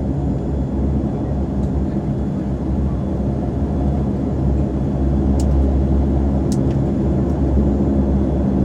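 Saab 340 turboprop engines and propellers running: a steady low drone with evenly spaced pitch lines and a couple of faint clicks in the middle.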